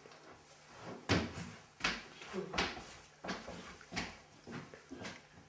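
A series of about seven separate knocks and thumps, irregularly spaced, the loudest just after a second in.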